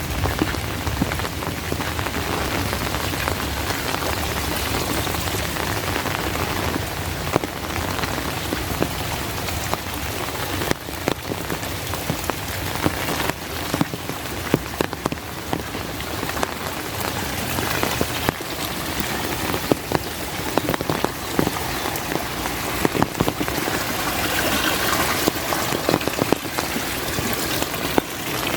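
Steady rain falling, with many close drops ticking and pattering. The low rumble of thunder dies away in the first few seconds.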